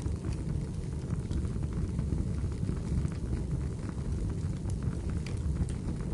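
Wood fire burning in a fireplace: a steady low rumble of the flames with irregular sharp crackles and pops from the burning firewood.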